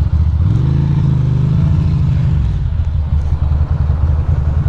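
Ducati Monster's L-twin engine running under the rider. About half a second in its note rises as the bike pulls away, then settles back to a steady run.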